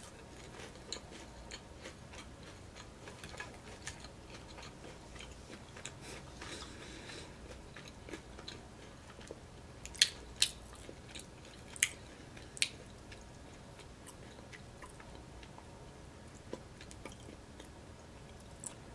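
Close-miked chewing of a mouthful of crispy fried veg samosa: soft, wet mouth sounds, with a few sharp clicks about halfway through.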